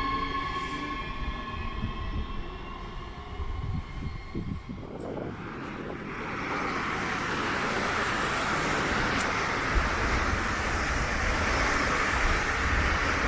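Trains at a railway station: a fading high whine at the start, then from about six seconds in the steady rushing noise of a train running past.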